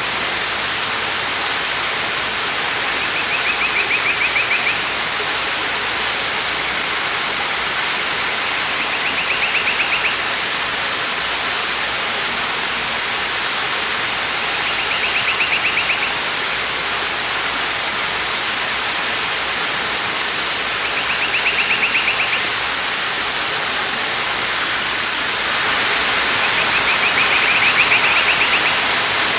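Waterfall rushing steadily, with a high bird trill repeating five times, about every six seconds. The water grows slightly louder near the end.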